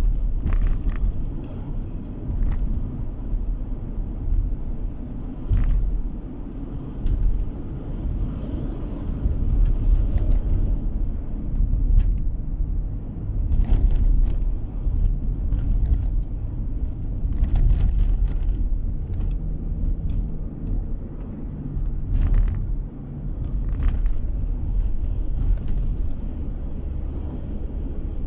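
Car driving along a road, heard from inside the cabin: a steady low rumble of engine and tyres, with many small rattles and clicks scattered through it.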